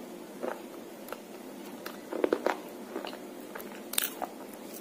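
Close-up crunching of a person chewing a baked clay slate pencil, a series of sharp irregular crunches. The loudest come in a cluster a little after two seconds in and again near the end.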